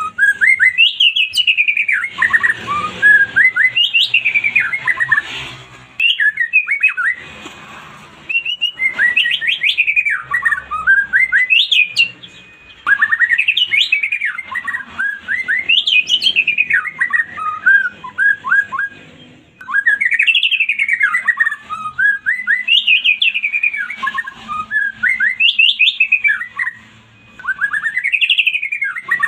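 White-rumped shama (murai batu) singing loudly: phrase after phrase of fast whistled notes sweeping up and down, with short pauses between them.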